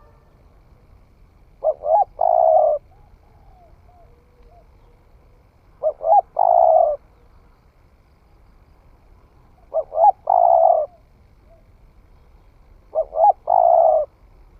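Spotted dove, a young bird newly come into song, cooing: four phrases about four seconds apart, each two short coos followed by a longer one. Faint calls of other birds can be heard between the phrases.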